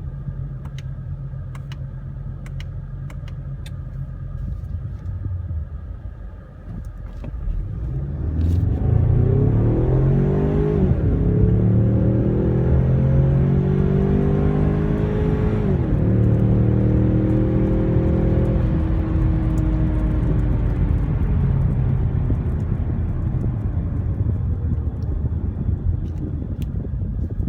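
Ford Mustang 2.3 EcoBoost's turbocharged four-cylinder engine idling, then accelerating hard from about seven seconds in. Its pitch climbs and drops sharply twice at the upshifts, then eases down slowly as the car comes off the throttle.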